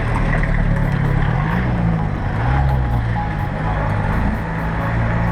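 Motor vehicle engine running, its pitch rising and falling as it changes speed.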